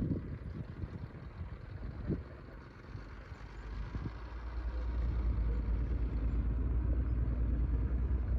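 Heavy diesel earthmoving machinery running, its deep engine rumble growing louder from about three seconds in and then holding steady, with a couple of brief knocks before that.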